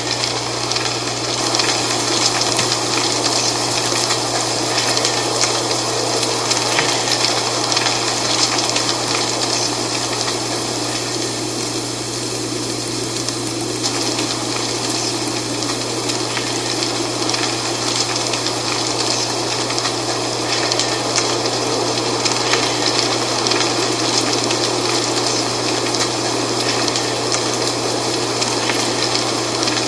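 Wind blowing through dry fall leaves, a steady rushing with a constant fine crackling rustle, over a steady low hum.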